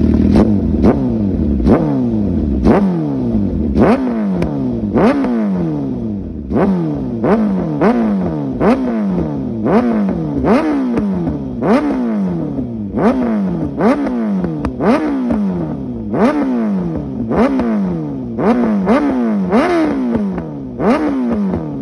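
Suzuki GSX-R1000 K7 inline-four with a Bodis aftermarket exhaust, revved in quick, repeated throttle blips about once a second. Each blip rises sharply and falls away, with a sharp crack from the exhaust as it throws flames.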